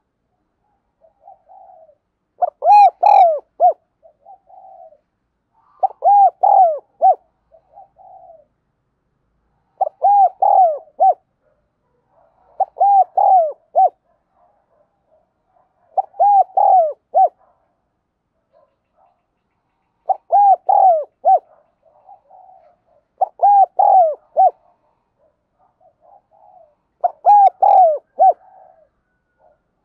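Spotted dove cooing: a phrase of three or four coos repeated about eight times, one every three to four seconds, with softer coo notes between the phrases.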